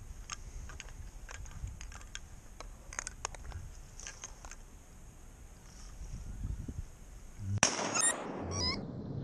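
Faint scattered ticks, then near the end a sudden loud burst followed by a short run of loud quacks stepping down in pitch, the descending call of a duck.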